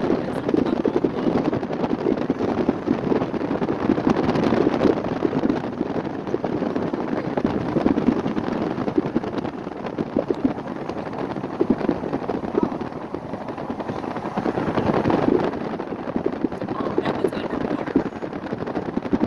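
Wind buffeting the microphone during a ride in a moving vehicle, a steady fluttering rumble.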